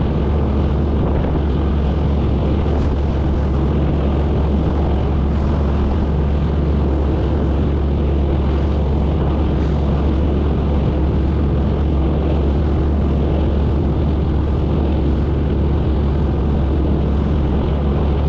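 Boat engine running steadily under way, a constant low drone with an even rush of noise over it.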